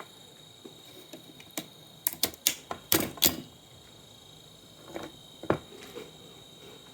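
Sharp clicks and clacks of hard plastic and metal parts being handled while an old monitor is taken apart, in a quick cluster about two to three seconds in and twice more near the five-second mark. A faint steady high whine sits underneath.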